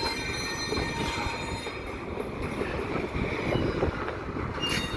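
Intermodal double-stack freight cars being shoved slowly along a yard siding: a steady rumble with high, thin wheel squeal, strongest in the first couple of seconds, fading, and briefly returning near the end.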